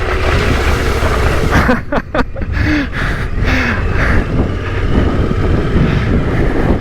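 Yamaha Ténéré 700's parallel-twin engine pulling a rough hill climb under steady throttle, its pitch rising and falling briefly a few times as the clutch is worked, with wind buffeting the helmet microphone. A cluster of sharp knocks, the bike hitting rocks, comes about two seconds in.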